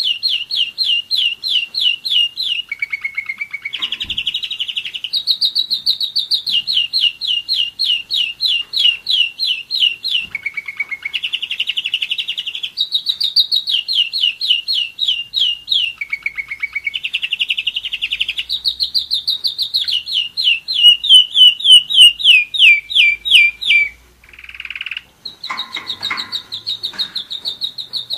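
German roller-split canary singing a long, continuous rolling song of fast repeated notes. It switches to a new phrase every second or few, pausing briefly near the end before singing on.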